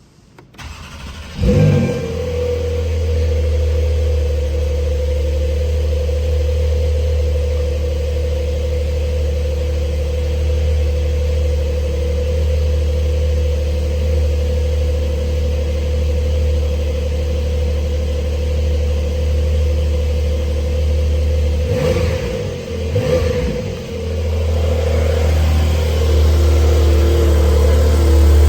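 Porsche 911 Carrera 4S's 3.0-litre twin-turbo flat-six starting up about a second in with a brief flare of revs, then idling steadily through the exhaust. About 22 seconds in it is blipped twice in quick succession before settling back to idle.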